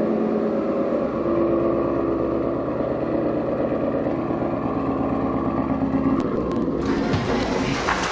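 Twin-turbo Ford Mustang engine running steadily; about seven seconds in its note breaks up and slides in pitch.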